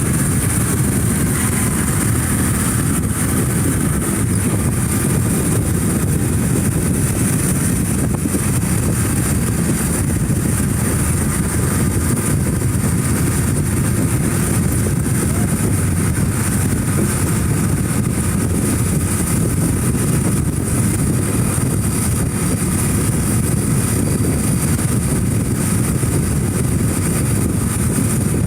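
Motorcycle running at a steady riding speed, its engine and road noise an even, continuous low sound.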